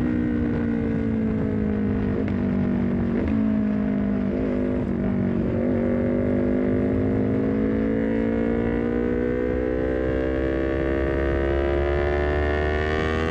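Honda CBR250RR parallel-twin engine through a Leovince GP Corsa short carbon silencer on a full-system header, heard from the bike while riding. The engine note eases down with a few short breaks in the first half, then the revs climb steadily under acceleration through the rest, with wind rumble beneath.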